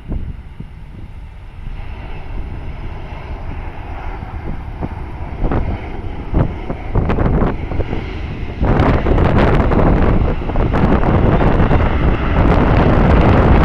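Four turbofan engines of a Boeing 747-400 landing, the jet noise growing louder with a sudden step up about two-thirds of the way in. Wind buffets the microphone.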